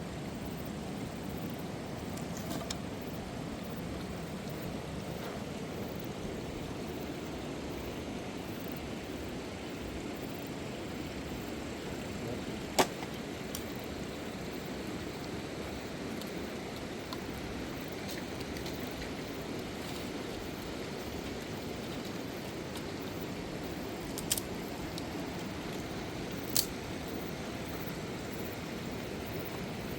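Steady rushing of a river. Three short sharp clicks or knocks cut through it, one about halfway through and two close together near the end.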